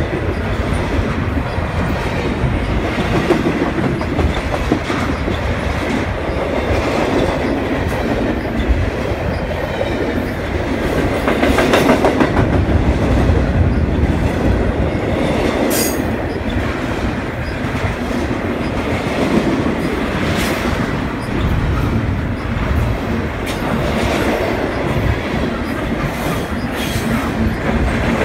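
CN double-stack container freight train rolling past close by: a steady heavy rumble of steel wheels on rail with clickety-clack over the rail joints, and a brief high-pitched squeal about halfway through.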